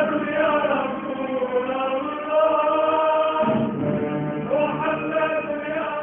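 Music with a group of voices singing long, slowly gliding held notes.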